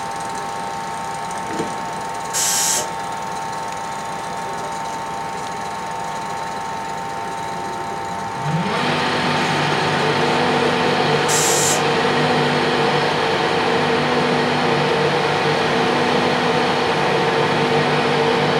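A train's engine or traction equipment at the platform, first a steady whine, then about eight and a half seconds in a louder, lower drone that starts with a short rise in pitch and holds steady as the train powers up. Two brief hisses come about two seconds in and again near eleven seconds.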